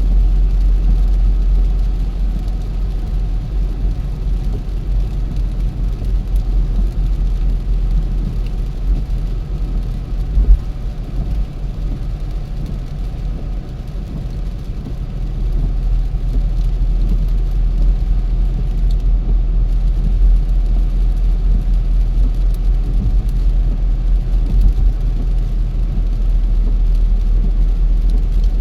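Car on the move: a steady low rumble of road and engine noise, with one short thump about ten seconds in. It eases off for a few seconds around the middle, then builds up again.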